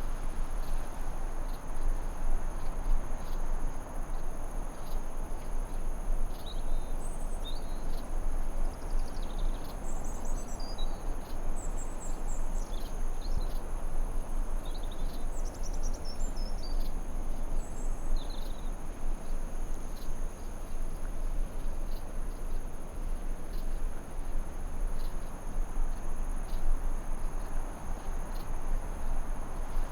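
Forest ambience: a steady rushing noise under a continuous high-pitched ringing drone, with birds chirping and twittering for about ten seconds in the middle.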